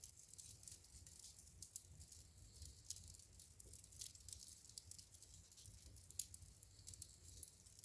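Wood fire crackling faintly in a fireplace: a steady scatter of small sharp snaps and pops over a faint low rumble, with a louder pop about six seconds in.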